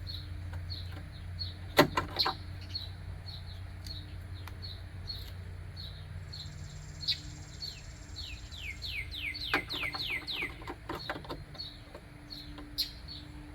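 A small songbird chirping over and over, about two short chirps a second, with a quick run of falling whistled notes about nine seconds in. A few sharp clicks and knocks of parts being handled sound alongside, the loudest about two seconds in.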